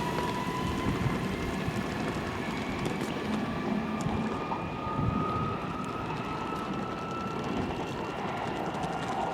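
Train running past, with a faint whine that slowly rises in pitch over steady running noise.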